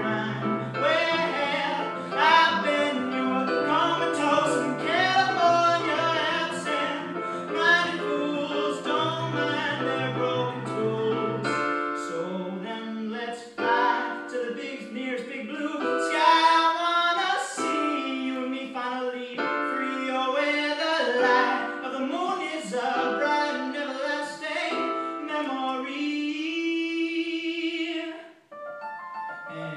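A solo singer performing a song with piano-like keyboard accompaniment. The low accompanying notes drop out about twelve seconds in, leaving the voice over higher notes.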